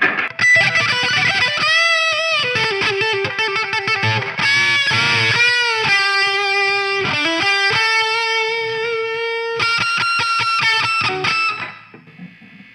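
Distorted electric guitar through a Mojotone British 800 kit tube amp, a JCM800-style clone, playing a fast single-note lead line with string bends and vibrato. A held note sits about two thirds of the way through, and the playing stops and dies away near the end.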